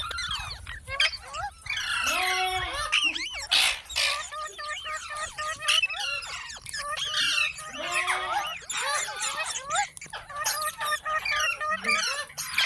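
Pet green parakeet squawking and chattering in a long run of calls, with rising-and-falling arched squawks among quicker chattering notes and a sharp screech about four seconds in.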